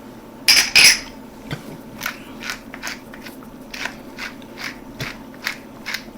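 A pepper mill being twisted, grinding in short crunching strokes about two a second, after a louder clatter about half a second in.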